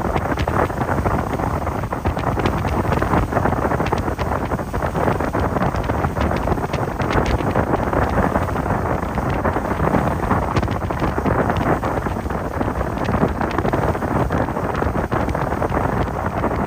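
Wind buffeting the microphone aboard a moving boat: a loud, steady rushing noise with frequent small crackles.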